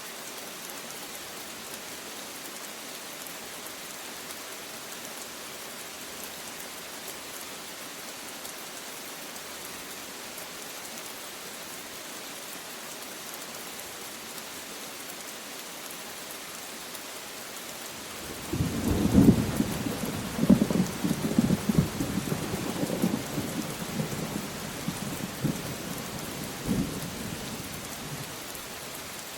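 Steady rain falling, with a thunder clap about two-thirds of the way through that cracks and rumbles for several seconds before dying away.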